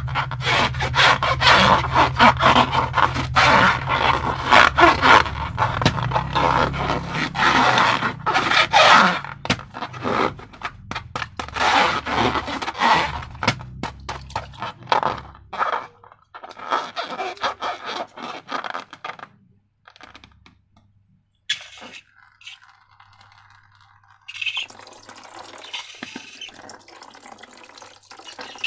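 Slime-making materials being handled: rapid, dense scraping and crackling for about the first fifteen seconds, then sparser and quieter, with a near-silent gap shortly before the end.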